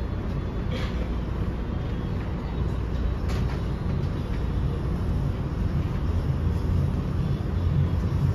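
Steady low rumble inside an NJ Transit Comet II/IV passenger coach as the train pulls out and slowly gathers speed, growing a little louder. Two short sharp clicks come about one and three seconds in.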